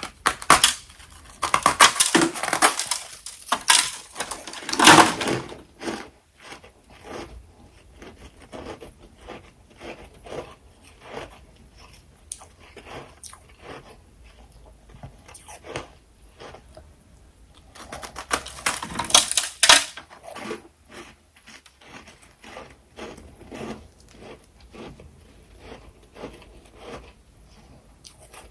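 Freezer frost being bitten and chewed: loud crackly crunching in the first six seconds and again around eighteen to twenty seconds, with softer crackling chews in between.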